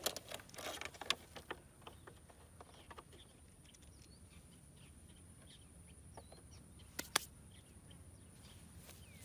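Faint, scattered bird chirps in the background. Clicks and rustles of handling come in the first second and a half, and two sharp clicks about seven seconds in.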